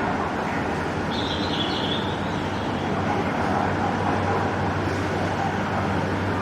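JR 701 series 5000-subseries electric train, a steady low hum and rumble. A brief high chirp sounds about a second in.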